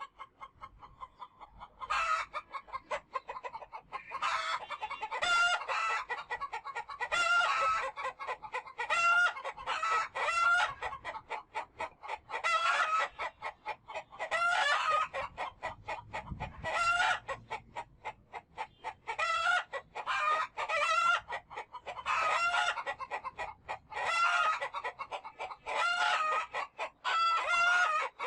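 Chickens calling over and over: a steady run of short pitched clucks and squawks, about one or two a second.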